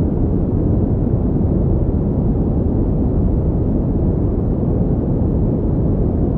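Pink noise: a steady, even rushing sound, strongest in the low end and fading toward the highs, with no change in level.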